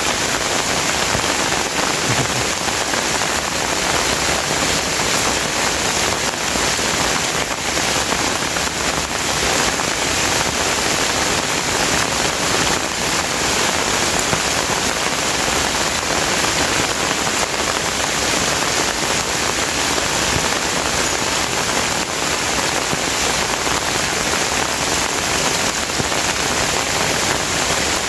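Steady heavy rain falling, an even, unbroken hiss of drops on surfaces.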